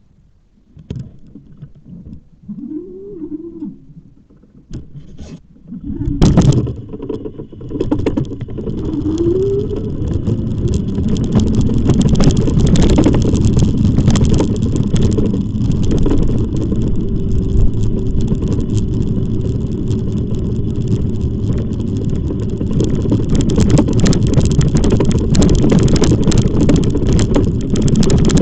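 Riding noise from an e-bike on the move: a quiet first few seconds, then from about six seconds in a loud, steady, low rumble with rattling and scraping.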